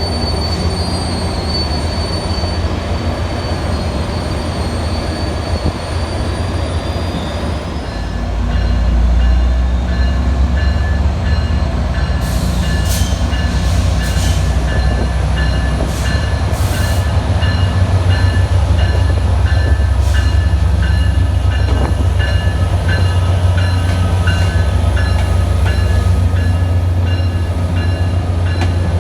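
Passenger train in the station: wheel squeal over a deep engine rumble that grows louder about eight seconds in, after which a bell rings steadily and repeatedly.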